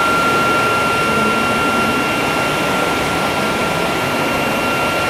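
Steady running noise of a moving passenger train, an even rush with a constant high-pitched whine over it.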